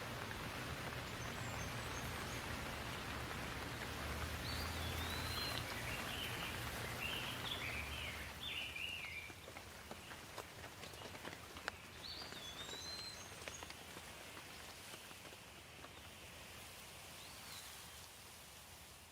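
Steady rain hiss with birds calling over it: a short rising-and-falling whistle repeated every few seconds, and a run of chirps a few seconds in. The rain gets quieter about halfway through.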